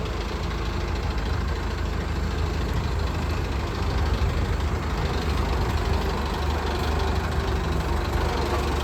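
Mahindra diesel tractor engine idling steadily, its sound sitting mostly low in pitch.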